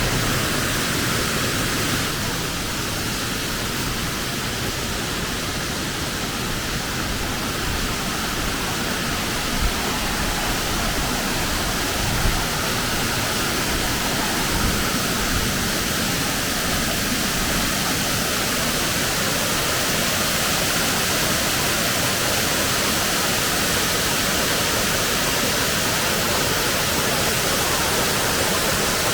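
A waterfall's steady rush of falling water, with a few brief soft knocks near the middle.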